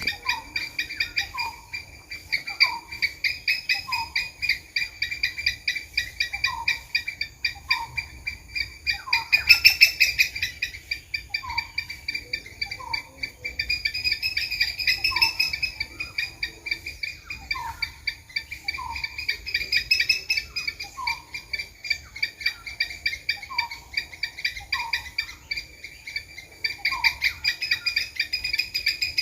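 Squirrel calls: short chirps repeated about once a second, over a steady, fast-pulsing high trill.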